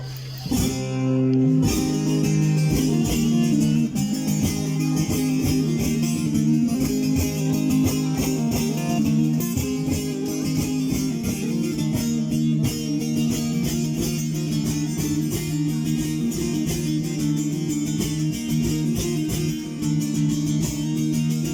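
Amplified bağlama (long-necked Turkish saz) playing an instrumental semah passage between sung verses: densely picked notes over a steady drone. It starts about half a second in and quickly reaches full strength.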